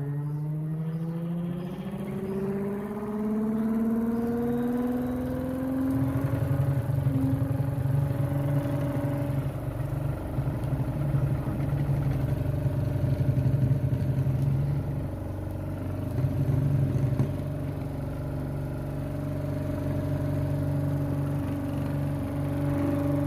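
Electric motor, powered through a driver from a battery, spinning up with a rising hum over the first several seconds, then running steadily with a rattle.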